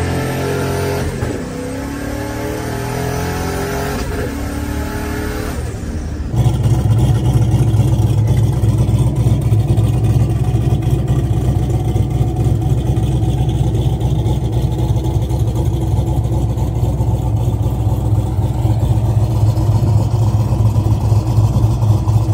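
Foxbody Mustang engine accelerating, its pitch rising, heard from inside the cabin; about six seconds in it cuts abruptly to the engine running steadily with a loud, even low rumble.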